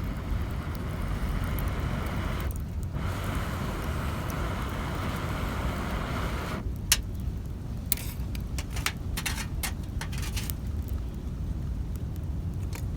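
Wind rumbling on the microphone, with a scattered run of sharp clicks and crackles in the second half.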